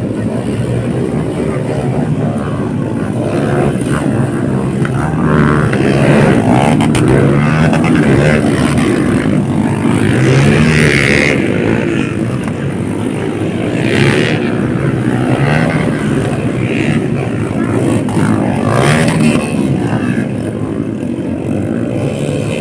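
Dirt bike engines running hard, their pitch rising and falling as the riders open and close the throttle.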